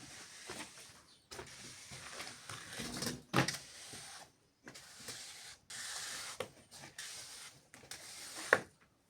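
Scraping of a hand tool drawn over wet cement while a kitchen floor is levelled and smoothed, with a few sharp ticks. It comes in short stretches that cut off abruptly into silence.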